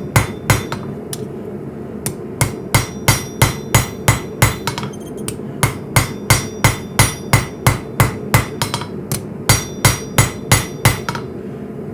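Hand hammer striking hot coil-spring steel on an anvil at a steady pace of about three blows a second, each blow ringing brightly, while the knife's tang is shaped by hand. The blows pause briefly about a second in and stop near the end.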